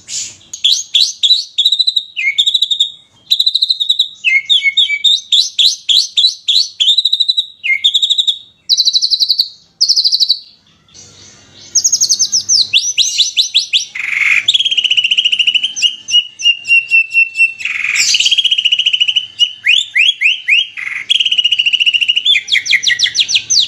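Songbird masteran: rapid strings of sharp, repeated down-sweeping chirps and fast trills, the 'tembakan' phrases used to tutor caged songbirds. It is pieced together from several bird recordings, with a brief lull a little before halfway.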